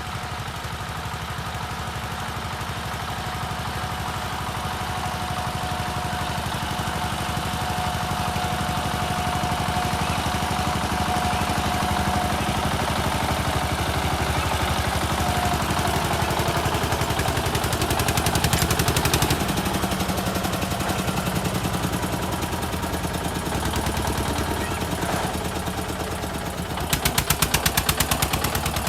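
Eicher tractor's diesel engine running with a fast, even beat of firing pulses. It grows louder briefly about 18 seconds in and again near the end.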